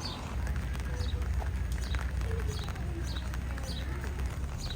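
A bird calling repeatedly with short, high, downward-sliding chirps, about one or two a second, over a low rumble.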